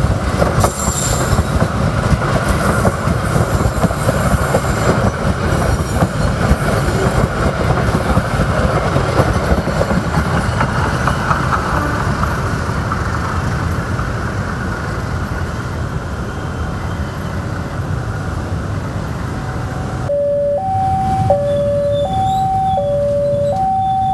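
Passenger train passing close by, a steady rumble that fades as the train draws away. About twenty seconds in, a level crossing's warning alarm starts, switching back and forth between two tones about once a second.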